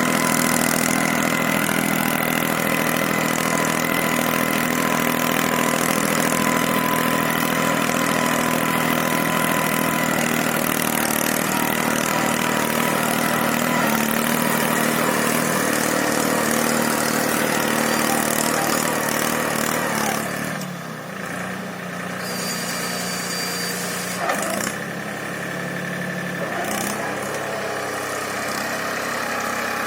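Force Abhiman 4x4 tractor's diesel engine running steadily while pulling a seven-tine cultivator. About twenty seconds in, its note drops lower and quieter and turns more uneven.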